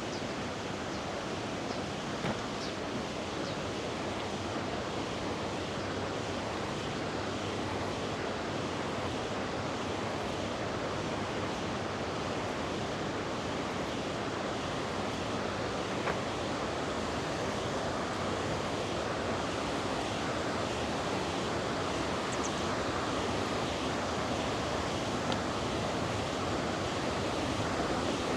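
A river rushing over rocks: steady water noise that grows slightly louder toward the end.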